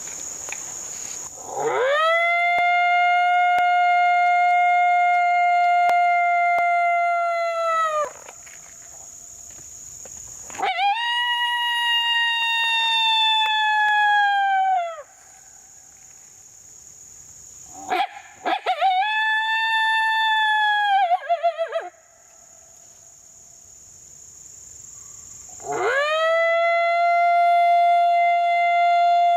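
Coyote howl call sounded by a hunter: four long, drawn-out howls, each sweeping up to a held note and dropping off at the end, the third one shorter and broken at its edges. These are locator howls meant to make coyotes howl back, and none answer. Crickets buzz steadily in the gaps.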